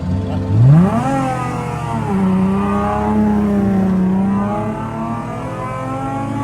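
Nissan 350Z's V6 engine revving hard under throttle. The pitch sweeps up quickly about half a second in, then holds high and wavers, easing off and slowly climbing again near the end.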